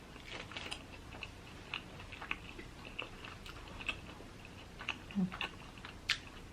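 Close-miked chewing of a Korean mozzarella corn dog, with short wet mouth clicks about once or twice a second and a sharper click about six seconds in.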